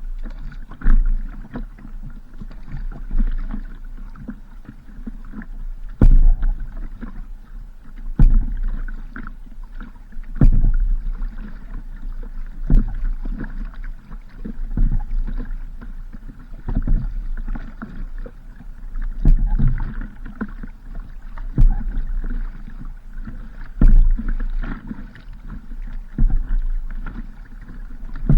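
Paddling a small boat on a river: water sloshing and splashing around the hull, with a stroke surging about every two seconds over a steady low rumble.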